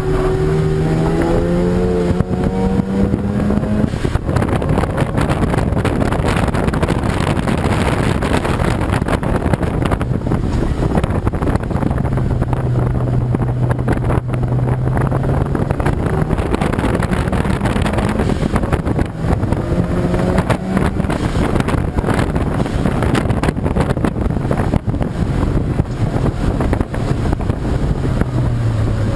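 Racing car engine under hard acceleration, its pitch rising through the revs near the start and again about two-thirds of the way through, with a steadier stretch between, over heavy wind noise on the microphone.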